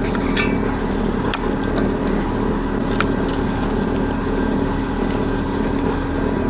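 A steady mechanical hum, dense and even, with scattered light metallic clinks over it.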